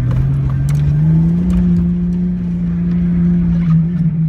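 Car engine speeding up over the first second or so, then holding a steady pitch while driving, over a low rumble from the tyres and road.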